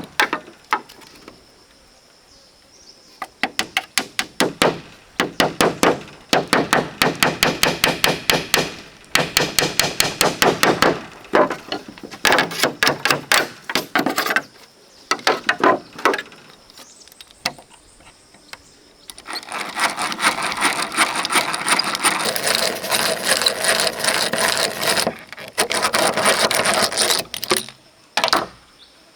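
A hand tool working bamboo or wood: bursts of rapid strokes, several a second, broken by short pauses, with a longer, denser run of scraping strokes about two-thirds of the way through.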